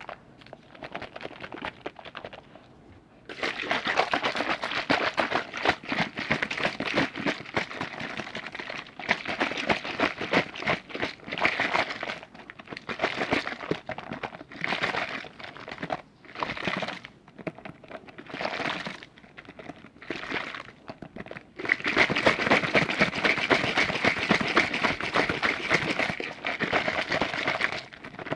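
Close-miked liquid being handled for ASMR: a dense, crackly run of tiny wet clicks and pops. It starts after a quiet moment, comes in a long stretch, then in shorter stop-and-start bursts, and then in another long stretch near the end.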